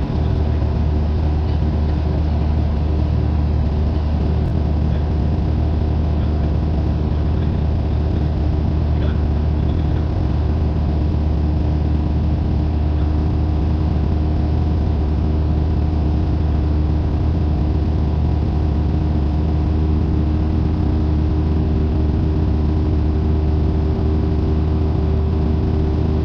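Cessna 172N's four-cylinder Lycoming engine and propeller running steadily, a loud, even drone heard from inside the cabin.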